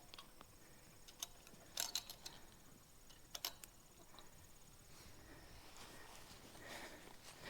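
Faint insect trilling, high and steady, with a few sharp clicks about a second, two seconds and three and a half seconds in.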